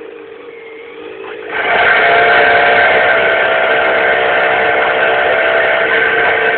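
Suzuki 1000 motorbike engine rising from idle to high revs about a second and a half in, then held at a steady, loud pitch. It is spinning a 100cc PRD kart to try to turn its engine over and start it.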